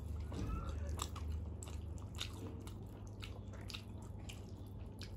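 People chewing mouthfuls of rice and curry eaten by hand, with scattered short, wet mouth clicks and smacks.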